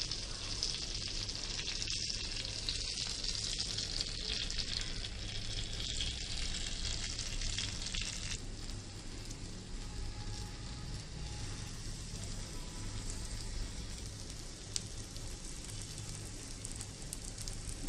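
Egg-battered chicken patties sizzling in melted butter in a hot pan; the sizzle eases a little about eight seconds in.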